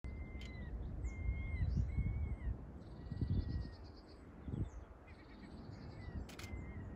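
Birds calling outdoors: a series of short whistled calls that slur up and down, with bursts of chirping trills between them, over a low rumble on the microphone. Two sharp clicks are heard, one about half a second in and one near the end.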